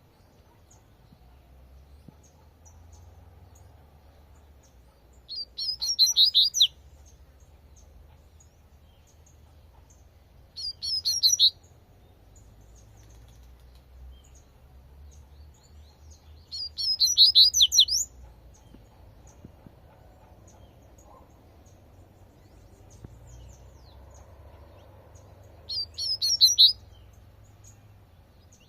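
Double-collared seedeater (coleirinho) singing its 'tui tui' song: four short phrases of rapid repeated high notes, each about a second long, several seconds apart. Faint scattered chirps and a low background rumble lie between the phrases.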